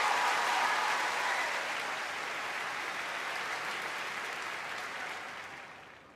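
Audience applause in a large hall, steadily dying away to almost nothing over about six seconds.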